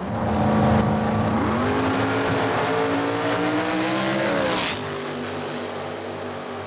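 Dragster's race engine running hard on a drag-strip pass. Its pitch holds, then climbs steadily for about three seconds before dropping sharply about four and a half seconds in with a brief rush of noise. It then runs on at a lower, steadier pitch.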